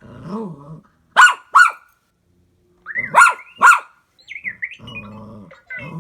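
A dog barking at a toy R2-series astromech droid: two pairs of sharp barks, with low growling at the start and again near the end. A burst of short chirping beeps, typical of the droid, comes a little past the middle.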